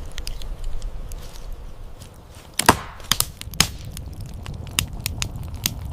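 A series of sharp, irregular knocks, like chopping. The loudest comes about two and a half seconds in, with several lighter ones after it.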